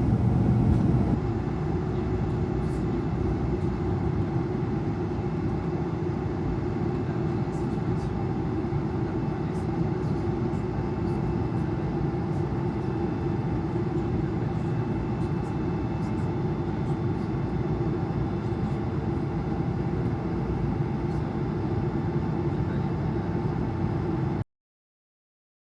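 Steady jet-engine and airflow noise inside the cabin of an Air France Airbus A220 under power, a loud, even rush with a few steady hum tones in it. It cuts off abruptly near the end.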